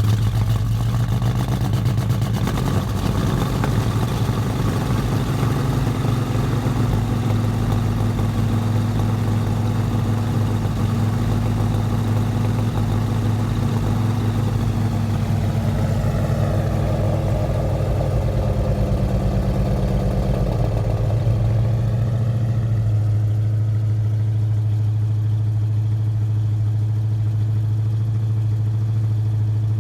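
1973 Ford Mustang Mach 1's V8 idling through headers, an X-pipe and dual exhaust with stainless tailpipe tips, a steady low rumble. About two-thirds of the way through, the idle drops a little and settles.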